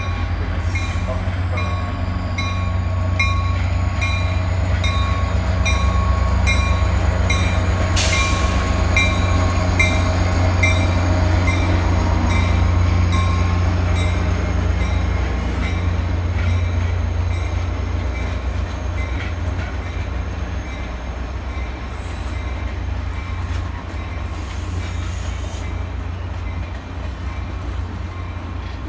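A Caltrain diesel-hauled train of double-deck gallery cars passes close by, its engine and wheels making a heavy, steady rumble that swells in the middle and eases toward the end. A high ding repeats about every two-thirds of a second through the first half, and a sudden burst of noise comes about eight seconds in.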